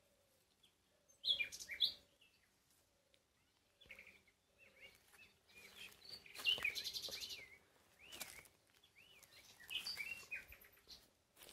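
Wild birds chirping and singing: scattered short calls with rising and falling whistles, the loudest about a second in and again around six to seven seconds in.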